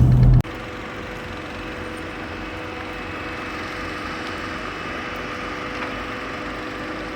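A loud low vehicle rumble cuts off abruptly just under half a second in. A vehicle engine then runs steadily with a faint hum and hiss.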